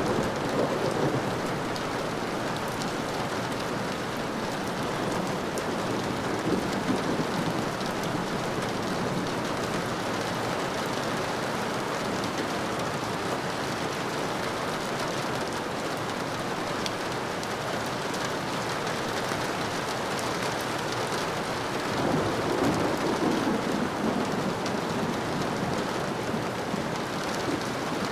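Steady rain falling, a constant hiss with scattered drop ticks, and a low rumble of thunder swelling up about four-fifths of the way through.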